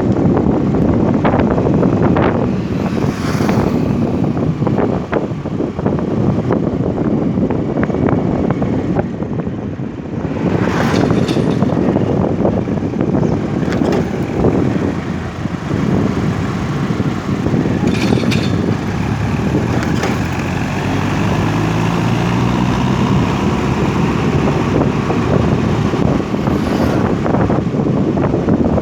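A motor vehicle running on the move, with wind buffeting the microphone. A steady engine note stands out from about two-thirds of the way in.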